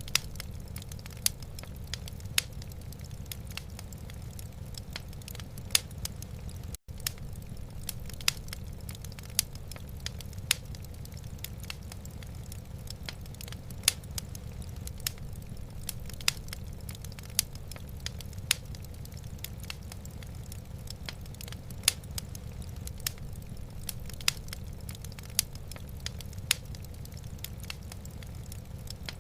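Wood fire crackling in a fireplace: sharp pops about once a second over a steady low rumble, with a momentary dropout about seven seconds in.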